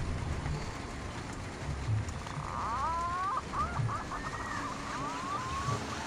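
Green pigeon (punai) calling: a string of warbling whistled notes that bend up and down, starting about two and a half seconds in and running some three seconds, over a steady low rumble.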